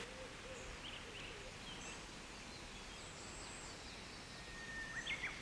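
Faint outdoor ambience with scattered short, high bird chirps and whistles.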